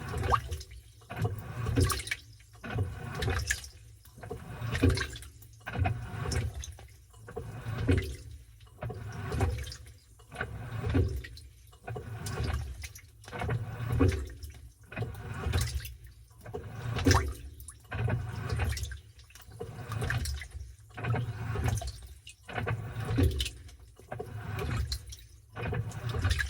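Washing machine churning a load of towels in water, with a rhythmic sloshing swish about every second and a half.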